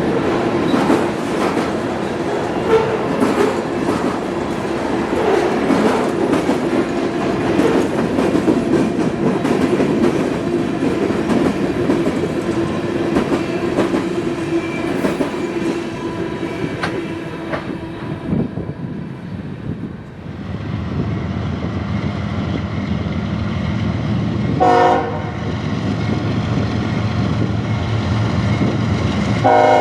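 Freight train cars rolling past with steady wheel clatter over the rail joints, fading out about two-thirds of the way through. Then a locomotive's low engine rumble, a short horn blast, and the horn sounding again just at the end.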